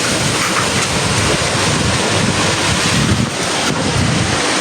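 Hurricane-force wind blowing hard and buffeting the microphone, a steady loud roar with gusty low rumbling, likely mixed with heavy rain.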